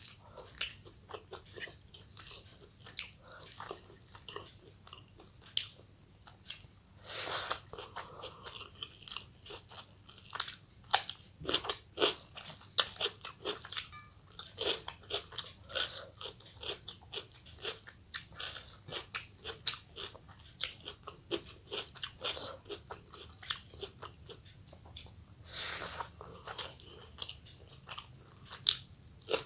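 Close-miked eating sounds: a person chewing and crunching food, with many irregular short, crisp mouth clicks and crunches.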